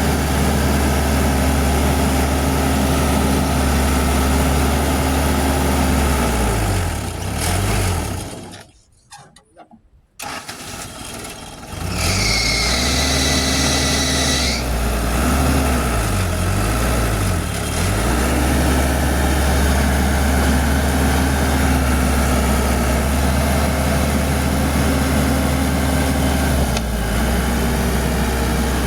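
Diesel engines of a crawler excavator and a bulldozer running steadily. The sound drops almost to silence for about two seconds near the middle, then the engines come back, with a high squeal lasting about two seconds just after.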